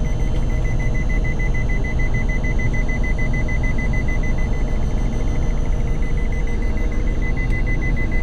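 Don-1500B combine harvester running with a steady engine drone, while a high-pitched warning buzzer beeps rapidly and evenly, the signal that the grain hopper is full.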